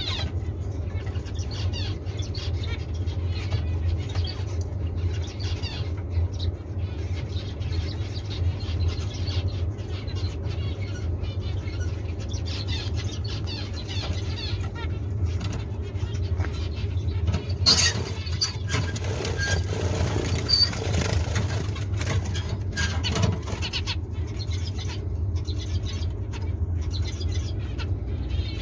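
Small cage birds chirping and calling in an aviary over a steady low hum, with a louder rushing, noisy stretch about two-thirds of the way through.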